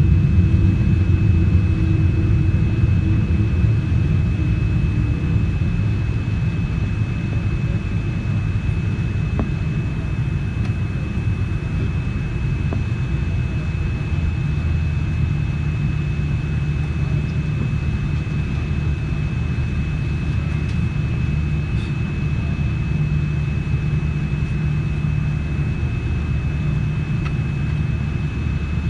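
Cabin noise inside a Boeing 787-9 on the ground, its GEnx engines at low power: a steady low rumble with a thin steady high whine above it, easing slightly in the first few seconds.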